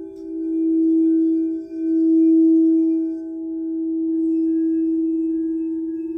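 Singing bowl sounding a single low, sustained tone that wavers and swells and fades in loudness every second or two, with higher overtones ringing above it.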